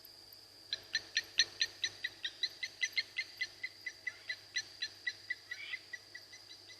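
A night animal's call: a rapid train of short, sharp notes, about five a second, starting about a second in and carrying on, loudest early and easing off later. It sits over a steady high-pitched insect whine.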